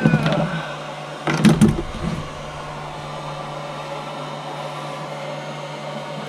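12-volt hairdryer mounted under a car's dash as a windscreen demister, running steadily with a hum and a rush of air blowing through the duct; the hairdryer is working and putting out warm air. A few knocks about a second and a half in.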